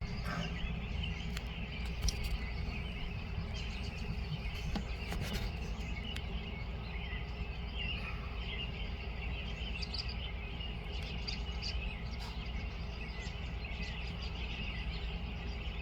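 Outdoor ambience: a steady chorus of small birds and insects chirping over a constant low rumble, with a few faint clicks.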